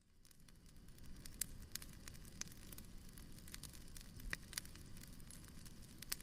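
Fireplace crackling: scattered sharp pops and snaps over a low steady rumble, fading in during the first second.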